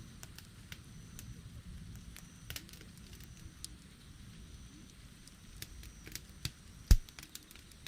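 Wood campfire crackling, with scattered small snaps and pops over a low steady rumble, and one loud pop near the end.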